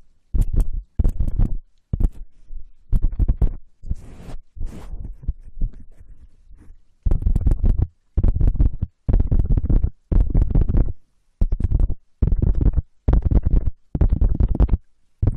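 ASMR scratching and rubbing on a sensitive close-up microphone, in repeated bursts of about half a second, roughly one a second, with deep rumbling thuds under a scratchy hiss.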